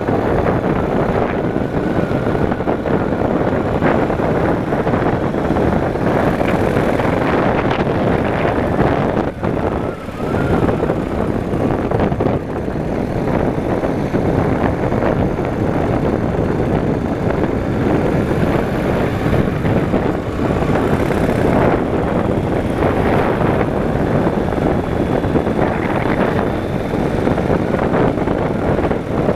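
Yamaha motorcycle riding along, its engine mixed with wind rushing over the microphone, with a brief dip in level about ten seconds in.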